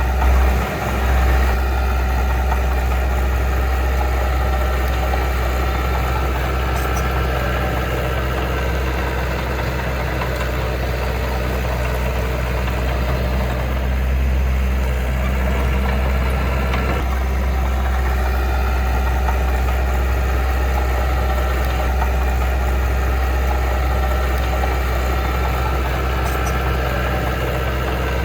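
Diesel engine of heavy earthmoving machinery running steadily with a strong low hum, briefly louder just after the start.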